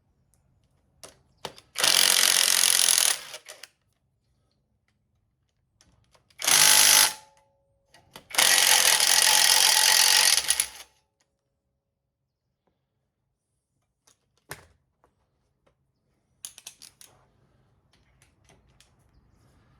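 Cordless power tool run in three short bursts, the last the longest, as it undoes a bolt on the engine, followed by a few light clicks and taps of parts being handled.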